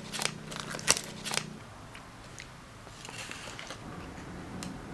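Eating sounds: a few sharp clicks of utensils against a food container in the first second and a half, then quieter scattered handling noises.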